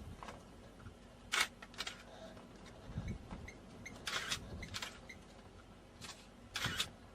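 Single-lens reflex camera shutters clicking: about five separate shots spread over several seconds, two of them close together near the start.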